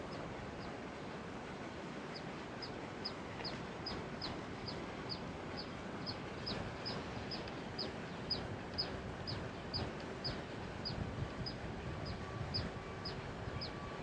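A bird calling: a long run of short, high, downward-sliding chirps, about two a second, with a brief pause after the first two.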